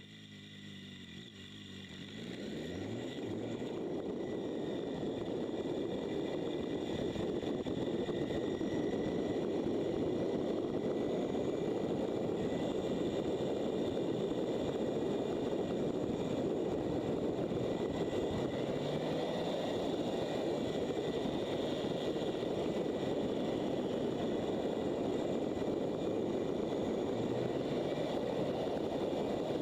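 Motorcycle under way on a road: engine and wind rush build as it picks up speed over the first few seconds, then run steadily.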